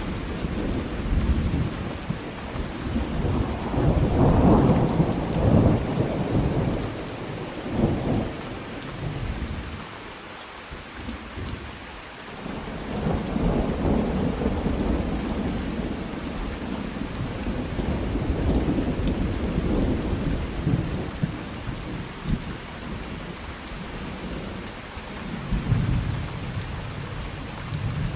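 Thunderstorm: steady rain falling, with rolling thunder rumbling in swells, loudest about four to six seconds in and again around the middle, and a brief lull between them.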